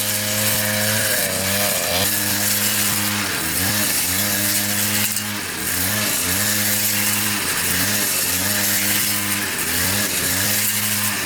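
A power saw, apparently a chainsaw, runs steadily at high speed. Its pitch sags briefly and recovers every second or two, as if it bogs as it bites into wood.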